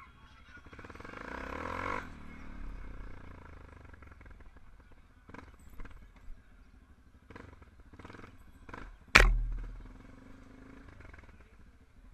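A motorcycle engine swells over the first two seconds and fades away, followed by scattered clicks and knocks. About nine seconds in comes one loud sharp bang that rings out for about a second.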